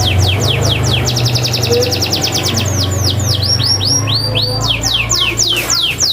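Domestic canary singing in full, non-stop song: fast runs of repeated falling whistled notes and rapid trills, over a low steady hum. This is the vigorous 'gacor' song used as a lure to set quiet canaries singing.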